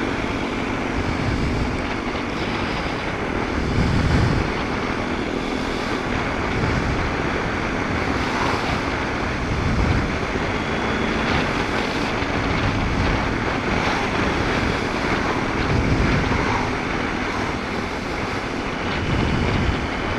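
Motorcycle riding noise: wind buffeting the helmet microphone in low, gusty surges, over the steady run of a BMW R1250 GS Adventure's boxer-twin engine.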